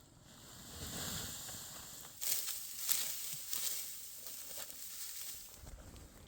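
Dry vegetation rustling and crackling, with a cluster of sharp, crisp rustles starting about two seconds in and easing off toward the end.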